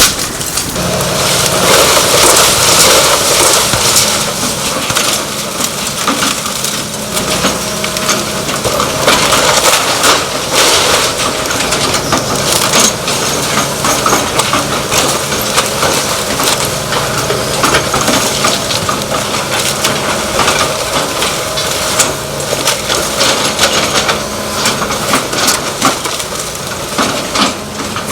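A wooden house being torn down: timber crushing, cracking and splintering nonstop as the structure gives way, with a machine's engine running steadily underneath.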